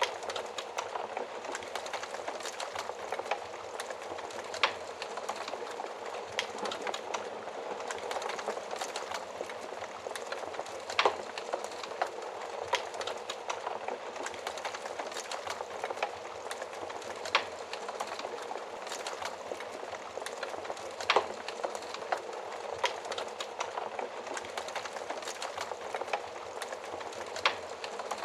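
Fire crackling in an oven fireplace: a steady soft hiss thick with small crackles, and a louder sharp snap every several seconds.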